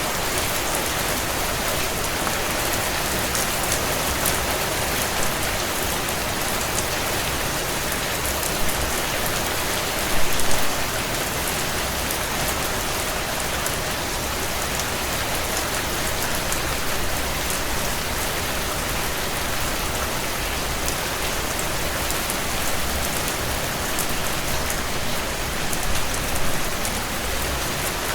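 Steady heavy rain pattering on window glass, with scattered small clicks and a short louder burst about ten seconds in.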